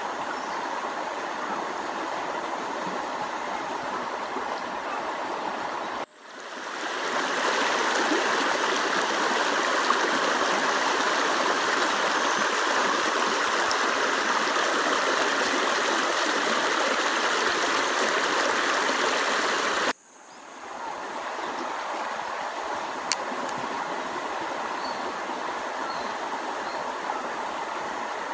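Steady rush of running water, in three stretches joined by abrupt cuts about 6 and 20 seconds in, each fading back in; the middle stretch is louder and brighter.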